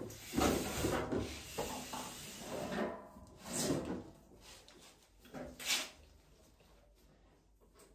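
Rubbing, scraping and knocking of parts being handled, in uneven bursts that die away over the last couple of seconds.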